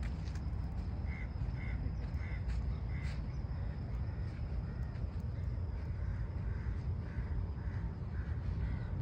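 A bird calling in two runs of short, evenly spaced calls, about two a second, the second run softer, over a steady low rumble.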